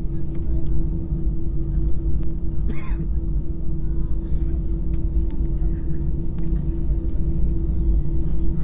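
Airliner cabin noise while the aircraft taxis after landing: a steady low engine rumble with a constant hum. A short burst of noise comes about three seconds in.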